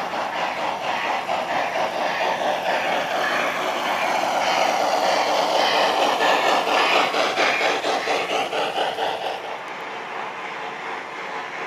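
Model train of a Southern Pacific AC-12 cab forward pulling boxcars along layout track: a rapid, even clicking of wheels on the rails that grows louder toward the middle and drops off about nine and a half seconds in.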